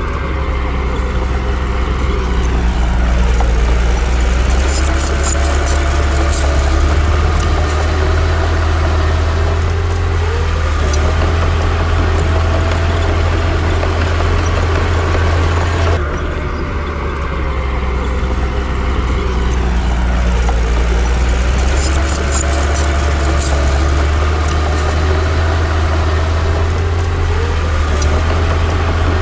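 Bulldozer's heavy diesel engine running under load: a steady low drone whose pitch dips and rises as the engine is worked, with scattered light metallic clinks from the tracks and blade. The same falling-then-rising pattern comes round again about halfway through.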